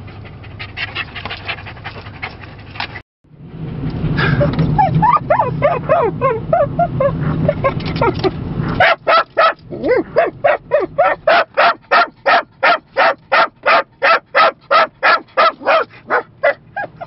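Small dog in a moving car, yipping and whining excitedly over the road noise, then barking fast and steadily, about three barks a second, for the last several seconds.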